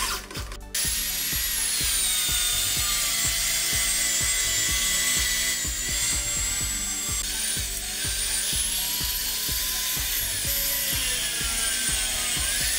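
Electric angle grinder cutting through a rubber car tyre, a high motor whine that starts just under a second in and dips and rises in pitch as the disc bites under load.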